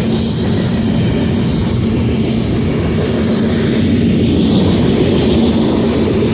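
BNSF freight train passing close by: a loud, steady rumble of wheels on rail.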